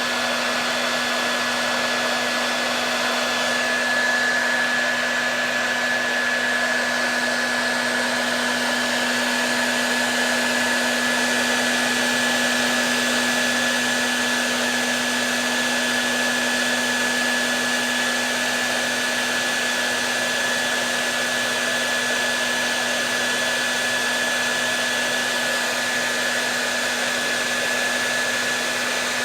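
Hair dryer running steadily without a break: an even rush of air with a low motor hum and a thin high tone.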